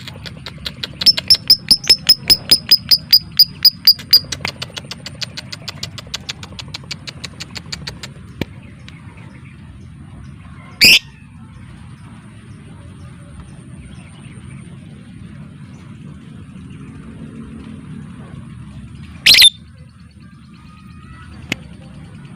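Lovebird giving a rapid series of loud, sharp repeated notes, about five a second, for some three seconds, trailing off more faintly for a few seconds more; later two single shrill calls, about eight seconds apart. A faint steady high insect-like drone runs underneath.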